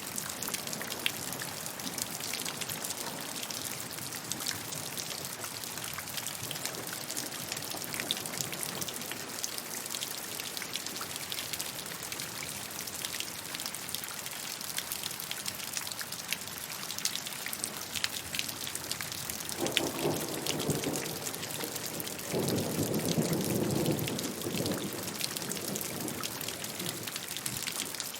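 Steady rainfall, a continuous hiss dotted with the sharp ticks of individual drops landing close by. Two low rumbles come in about twenty seconds in and again a few seconds later, the second one longer and louder.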